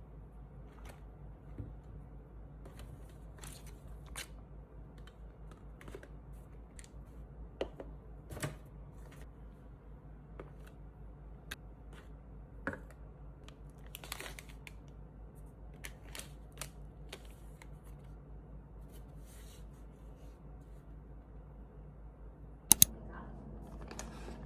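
Scattered light clicks, taps and rustles of small objects being handled over a steady low hum, with two sharp clicks in quick succession near the end.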